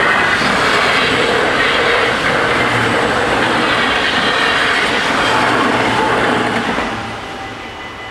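NS ICMm (Koploper) electric intercity train passing over a level crossing at speed. The loud rush of wheels on rail sets in at once, holds for about seven seconds, then fades as the last coach clears.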